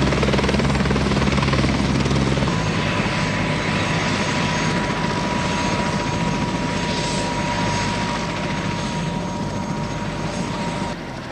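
Airbus Helicopters AS350 helicopter running: the steady beat of the main rotor with turbine noise. About two and a half seconds in, the rotor beat drops away abruptly, leaving a steady turbine whine over a rushing noise that slowly fades and cuts off just before the end.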